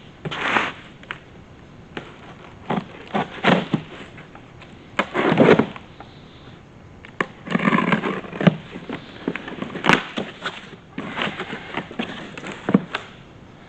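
Cardboard box being opened and its packaging handled: irregular rustling and scraping with scattered knocks and clicks, the longest scrapes about half a second in and between about five and eight and a half seconds in.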